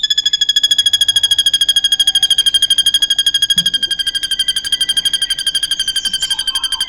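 A srigunting (drongo) singing one long, very fast, steady trill on a single high pitch.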